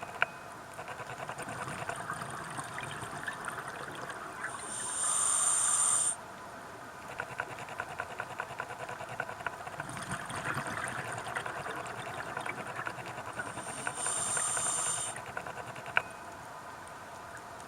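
Scuba regulator breathing heard underwater: two hissing inhalations about ten seconds apart, with a crackling, bubbling stretch of exhaled air rising between them.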